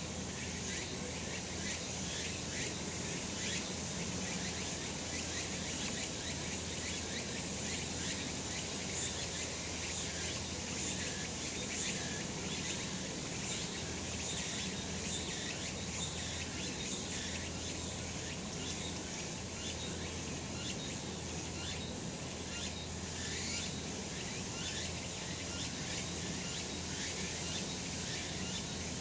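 Cicadas chorusing: a steady, dense, high-pitched buzzing made of many overlapping short pulses.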